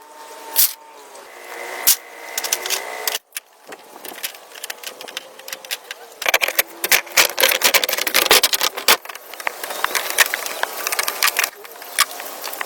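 Wood being handled and worked: a run of sharp knocks and taps with rubbing and scraping between them. The clicks become much denser from about six seconds in. About three seconds in, the sound cuts out briefly, as at an edit.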